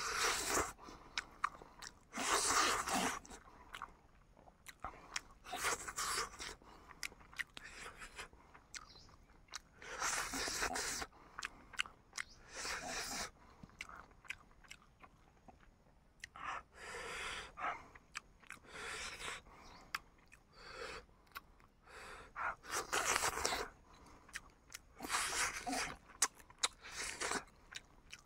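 A person chewing and crunching cooked chicken, close to the microphone. It comes in bursts of about a second every few seconds, with sharp wet mouth clicks in between.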